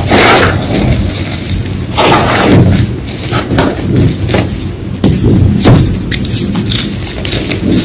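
Gym chalk being crunched and crumbled: a loud crunch right at the start, another about two seconds in, then a string of smaller crunches.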